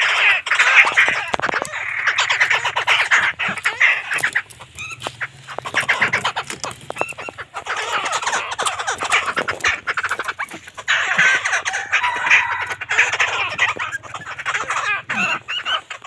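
Caged birds calling loudly in harsh, rapid chattering squawks, in long bouts broken by a few short pauses.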